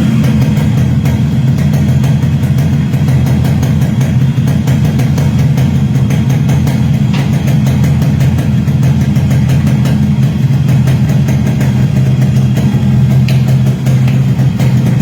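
Yamaha RXS 115's two-stroke single-cylinder engine idling steadily at a constant low pitch.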